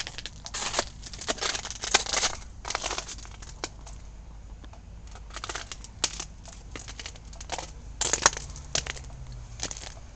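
Footsteps crunching through deep snow, in an uneven series with a short pause near the middle.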